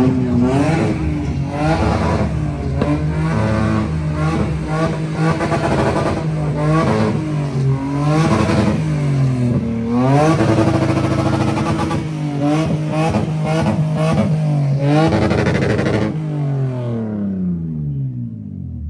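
A car engine held on a two-step launch limiter, revving hard and bouncing off the limiter for long stretches with rapid crackling pops from the exhaust. Near the end the revs fall away.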